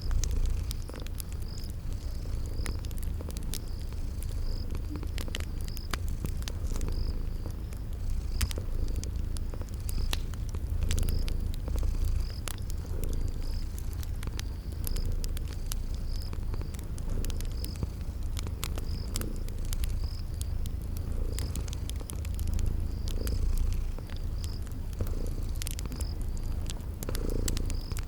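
A cat purring steadily in a low pulsing rumble, with a wood fire crackling in scattered sharp pops and a cricket chirping evenly about three times every two seconds.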